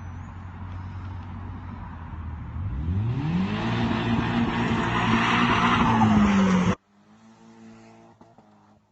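Turbocharged Nissan S15 Silvia's SR20 four-cylinder engine running low, then revving up steeply about two and a half seconds in and held high under heavy noise from the tyres spinning on dirt. The sound cuts off suddenly near the end, leaving a faint steady engine hum.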